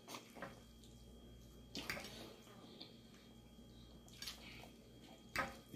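Faint eating sounds: three short, wet mouth smacks from chewing pasta and biscuit.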